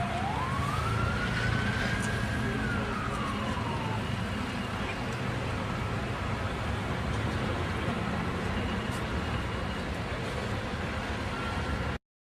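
An emergency-vehicle siren gives one wail, rising and then falling over the first few seconds, over steady traffic and road noise. All sound cuts off abruptly near the end.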